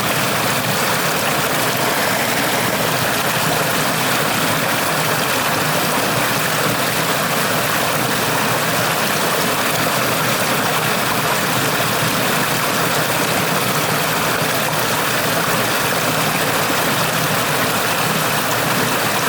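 Stream water flowing steadily, an even rushing hiss with no breaks or changes.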